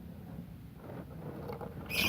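Caged lovebirds: faint scrabbling ticks and a short shrill squawk near the end, over a low steady hum.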